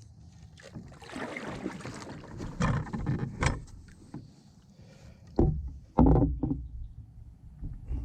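Canoe paddling: a wooden ash paddle swishes and splashes through the water on a solo canoe. There are several sharp knocks, the loudest about six seconds in.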